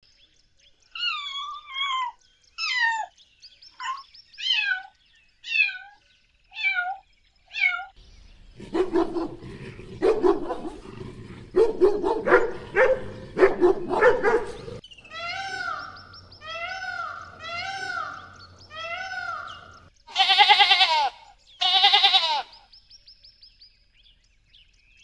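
A domestic cat meowing about eight times, each meow falling in pitch. A dog then barks repeatedly for about six seconds. After that come a series of short arched calls and two loud, wavering sheep bleats.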